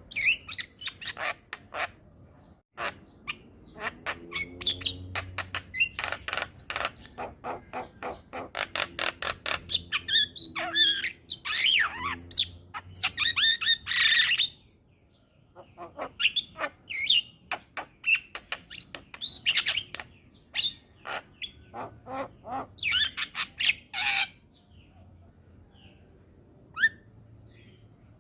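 Javan myna singing a fast, varied song of harsh squawks, rapid clicking chatter and rising whistles. It pauses briefly about halfway and goes mostly quiet near the end.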